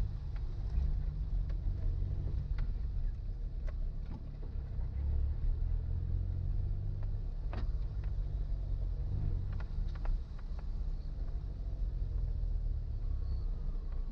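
Suzuki Jimny driving slowly over a rough, debris-strewn forest road: a steady low engine and road rumble, with scattered knocks and clicks.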